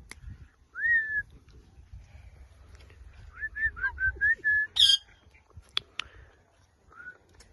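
Indian ringneck parakeet whistling: one rising-then-falling whistle about a second in, then a quick run of short whistled notes that ends in a single loud, harsh screech. A few sharp clicks and one last short whistle follow.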